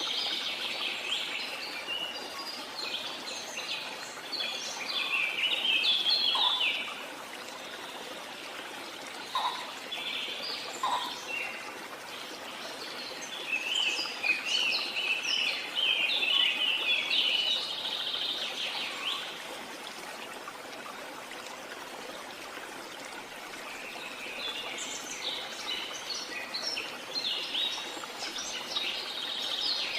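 Birds singing in spells of rapid, busy chirping over a steady rush of falling water. The song dies away about seven seconds in and again near twenty seconds, then picks up each time.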